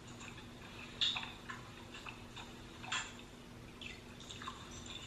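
A handful of short wet clicks and smacks, each falling quickly in pitch, spaced irregularly, the loudest about a second in: mouth sounds of someone eating, over a faint steady hum.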